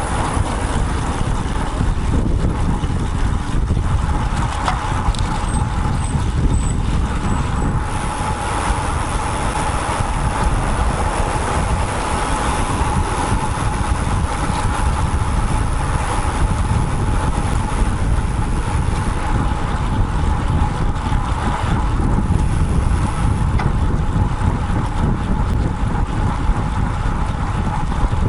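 Steady wind noise on a bike-mounted action camera's microphone while riding a road bike, mixed with the steady noise of road traffic.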